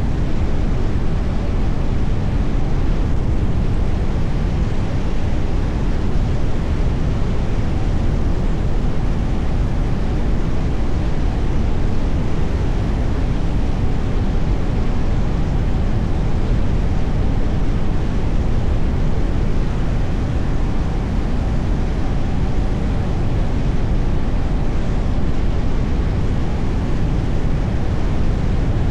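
Steady road noise of a car driving: tyre rumble and wind noise, even throughout with no distinct events.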